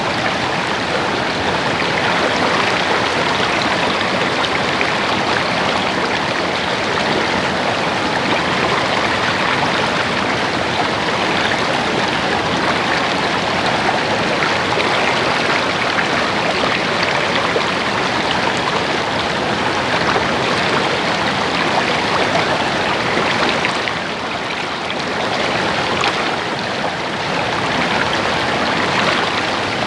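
Babbling stream water flowing over rocks, a steady splashing rush that eases slightly for a moment about 24 seconds in.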